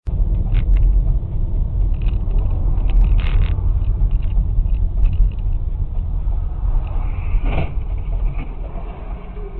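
Car driving, heard as a steady low rumble of engine and road noise, with a few short clicks and knocks.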